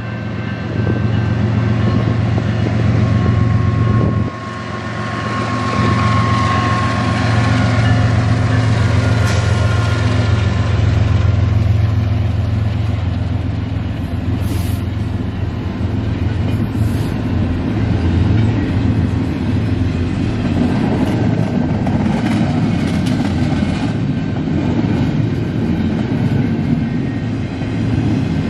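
Canadian National diesel freight locomotives passing close by under power, a steady low engine drone, followed by intermodal well cars rolling past with the rumble and clatter of wheels on rail. A few brief high-pitched squeals come from the wheels in the second half.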